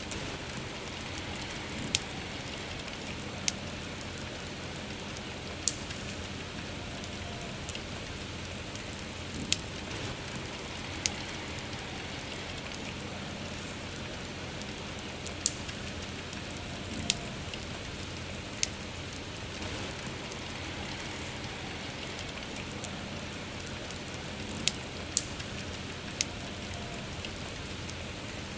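Steady rain pattering together with a wood campfire crackling: sharp, short pops stand out irregularly every second or two above the rain.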